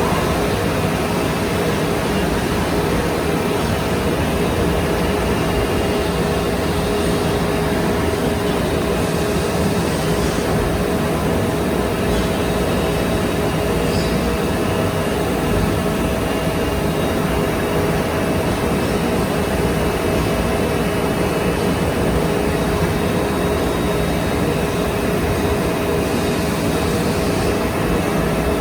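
OKK VP400 vertical machining center running steadily: an even mechanical hum with two steady tones held through.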